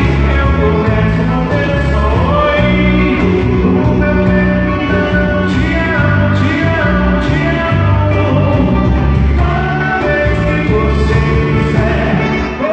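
A live band plays a song with a singer, over a bass line of held notes.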